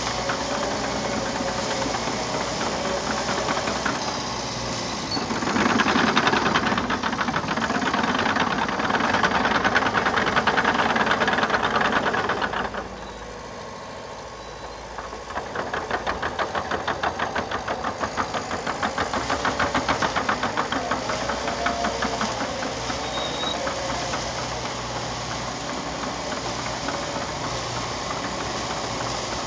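Liebherr PR 726 crawler dozer at work: its diesel engine running with a rapid clatter, louder under load for several seconds from about five seconds in, dropping away for a couple of seconds near the middle, then picking up again and settling to a steady run.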